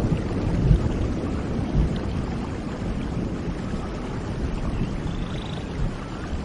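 Heavy rain falling steadily: a dense, even hiss with a deep rumble underneath, easing slightly in loudness over the few seconds.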